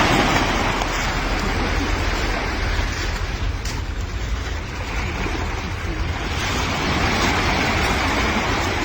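Sea waves washing onto a beach, with wind buffeting the microphone in a steady low rumble.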